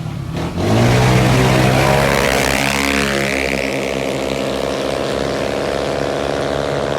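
Tuned CVT automatic scooter engines launching at full throttle in a drag race: a sudden loud start under a second in, revs climbing for about two seconds, then holding at a steady high pitch as the belt transmission shifts up.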